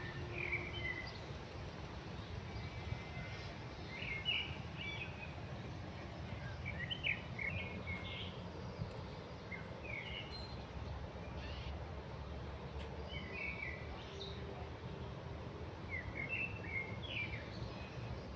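Songbirds chirping in short, quick phrases every few seconds, over a steady low rumble.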